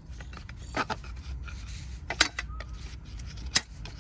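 Clay kulhad cups being broken: a few sharp cracks and crunches of brittle baked clay snapping. The loudest crack comes a little after two seconds in, and smaller ticks fall between the cracks.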